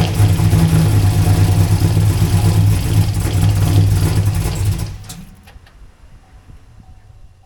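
Chevrolet Camaro's LS3 6.2-litre V8 catching and running loudly for about five seconds, then stopping. It is misfiring on the driver's-side bank, whose headers stay cold.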